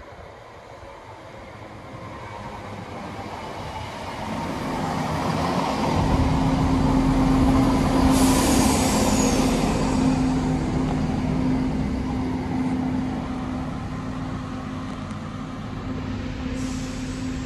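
Diesel multiple unit approaching and passing close by, growing louder over several seconds to a peak with a steady engine hum and rolling wheel noise, then fading as it goes away.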